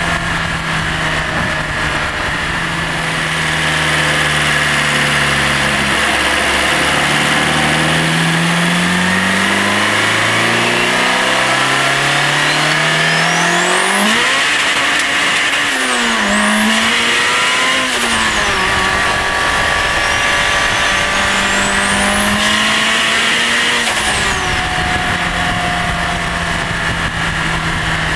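Turbocharged Honda Integra LS-VTEC four-cylinder engine, heard from inside the engine bay, pulling hard as its pitch climbs in several steps. Then a turbo whine sweeps up to a very high pitch and falls away three times. Near the end the engine settles back to a steady tone.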